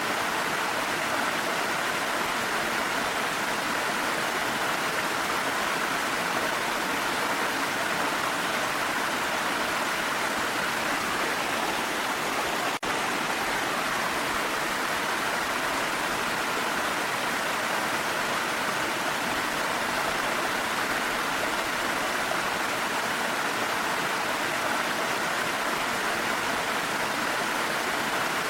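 Steady, even rush of a waterfall mixed with falling rain, with a momentary dropout about halfway through.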